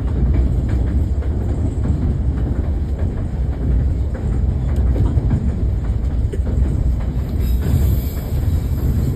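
Steady rumble of a White Pass & Yukon Route narrow-gauge passenger car rolling along the track, heard from inside the car, with now and then a faint click of the wheels over the rail joints.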